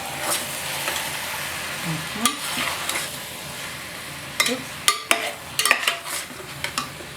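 Chicken pieces sizzling as they brown in hot oil in a pan, with the clacks and scrapes of a cooking utensil turning them over at intervals.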